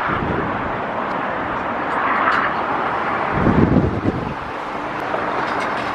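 Road traffic going by in a steady wash, with wind buffeting the microphone in low rumbling gusts, strongest about three and a half seconds in.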